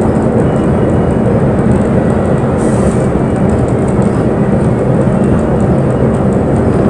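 Inside a moving bus: the engine and road noise run steadily, with a short faint hiss about two and a half seconds in.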